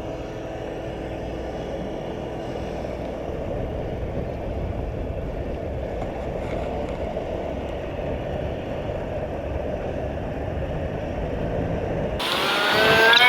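Small boat's outboard motor running steadily under way, with wind and water noise, gradually getting louder. Near the end a loud high-pitched squealing tone cuts in suddenly.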